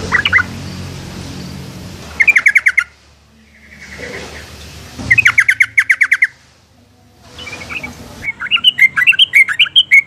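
Yellow-vented bulbul calling in three bursts of fast, chattering repeated notes. The third burst near the end is longer and more varied.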